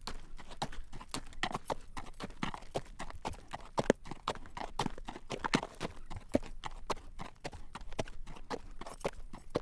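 Horse's shod hooves clip-clopping on a paved road at a walk, pulling a carriage: a steady run of sharp clacks, several a second.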